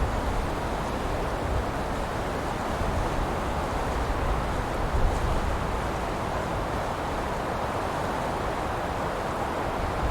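Wind blowing through pine trees, a steady rushing hiss of needles with a low rumble beneath, swelling slightly now and then.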